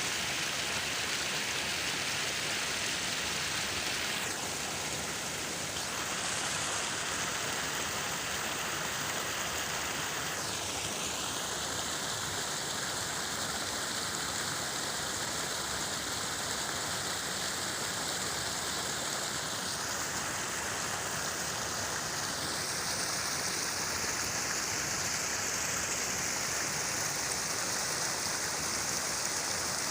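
Falling water splashing in a steady rush, its upper tone shifting slightly a few times.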